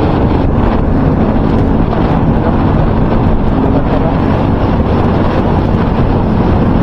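Loud, steady wind noise on a microphone, a constant low rumble that electrical tape wrapped around the mic has not stopped.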